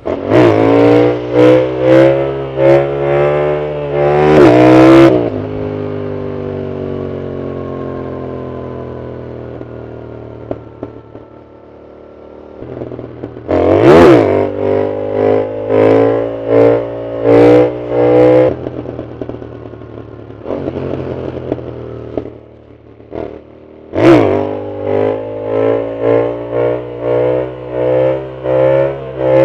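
Yamaha MT-07's parallel-twin engine through an aftermarket Arrow full exhaust, ridden hard. It revs up in repeated surges for the first few seconds, then its pitch falls slowly for several seconds as the bike slows. From about halfway it pulls hard again in a string of short surges, with a sharp crack where each run begins.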